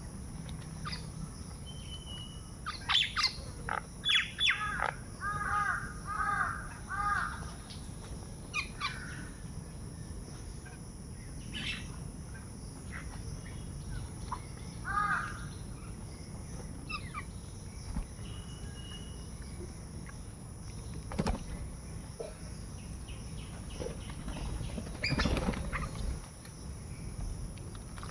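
Crows cawing, three calls in a row about five seconds in and another about halfway through, among the chirps of smaller birds.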